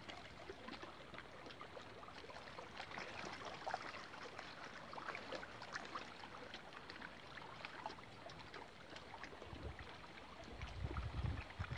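Faint water trickling and gurgling, with many small splashes. A low rumble comes in near the end.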